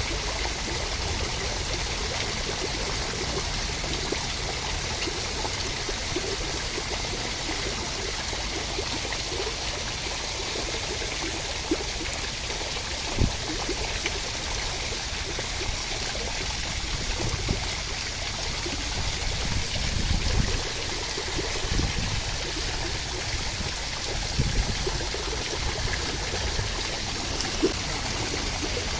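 Steady rushing-water noise, even and unbroken, with a few soft low thumps scattered through it.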